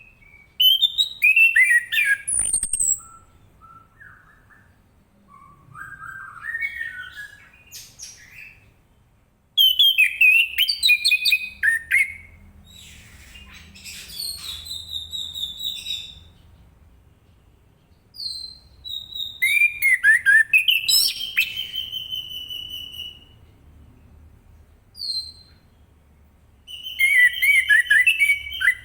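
Orange-headed thrush singing in loud, fast phrases of varied rising and falling whistles and chirps. It comes in four main bouts a few seconds apart, with softer twittering phrases between them.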